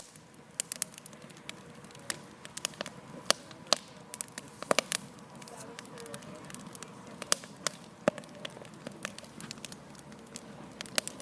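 Campfire crackling, with irregular sharp pops and snaps over a faint hiss.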